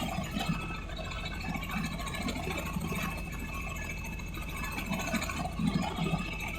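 An engine running steadily, with an uneven low rumble over a constant hum.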